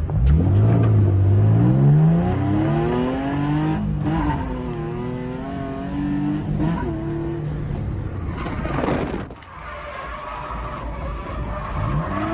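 Drift car engine revving hard. Its pitch climbs steadily over the first few seconds, holds high with small shifts, dips briefly about nine seconds in, and climbs again near the end.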